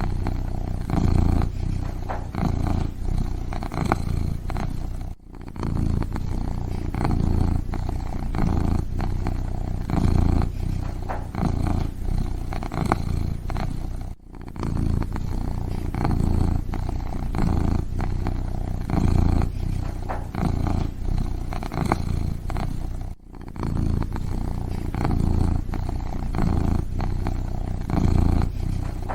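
A kitten purring steadily in a low, pulsing rumble, breaking off briefly three times about nine seconds apart.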